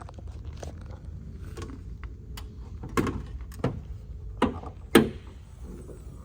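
Four sharp knocks or thumps in under two seconds, the last the loudest, over a low steady rumble.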